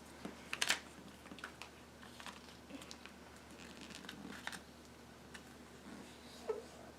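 A sheet of paper being folded and creased by hand: faint, scattered crinkles and small taps.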